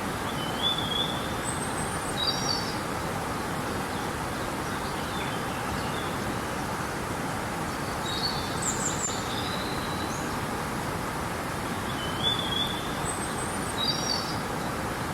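Steady rush of flowing river water with a small bird chirping short, high phrases over it three times.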